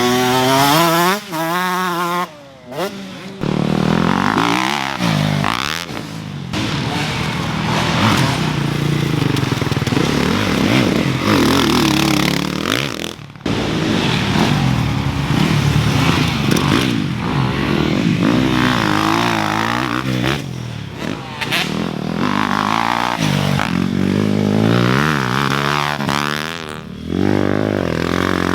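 Motocross dirt bikes running on the track, their engines revving up and down over and over as they accelerate and back off, with a couple of brief throttle cuts.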